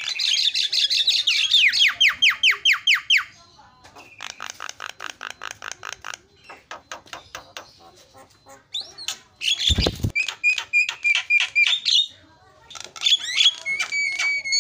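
Javan myna (jalak kebo) singing: fast runs of rapidly repeated whistled and rasping notes in several bursts with short pauses between them. A dull thump sounds a little under ten seconds in.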